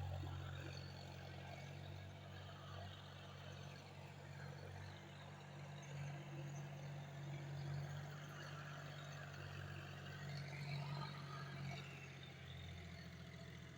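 John Deere tractor's diesel engine running steadily, a low hum that eases off slightly near the end.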